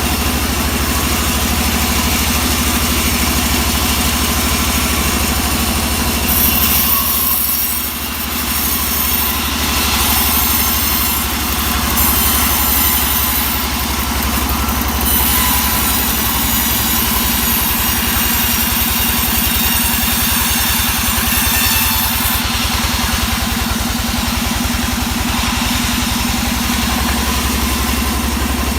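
Engine-driven saw working on teak wood: a steady engine note runs throughout, with long stretches of extra high, hissing cutting noise that come and go.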